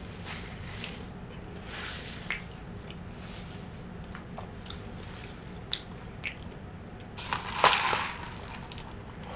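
A person chewing food, with short wet mouth smacks and clicks. A louder, longer noisy burst comes about three-quarters of the way through.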